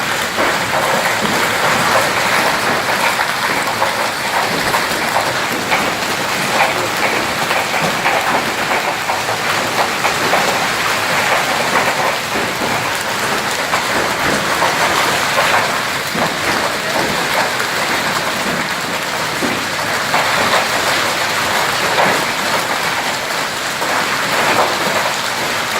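Heavy rain with large hailstones pelting down: a dense, steady patter dotted with many sharp individual hits.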